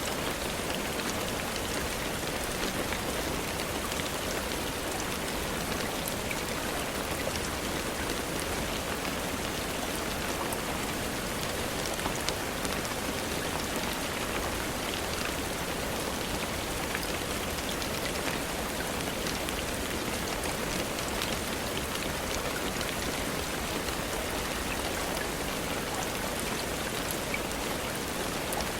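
Steady rain falling, its drops pattering on a surface, with a few sharper single drop ticks scattered through.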